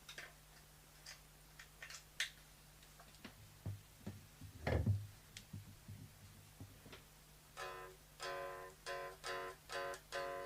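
Scattered clicks and handling knocks over a steady amplifier hum, with one low thump, the loudest sound, a little before halfway. About three quarters in, an electric guitar played through a Diezel VH2 tube amp begins: a run of about six short chord stabs, the last left ringing.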